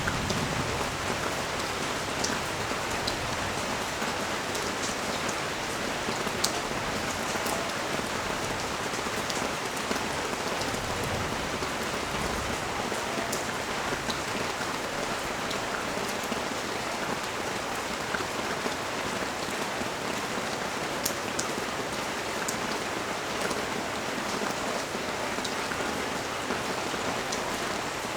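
Steady rain falling on a street and balcony: an even, dense hiss with scattered sharp ticks of single drops.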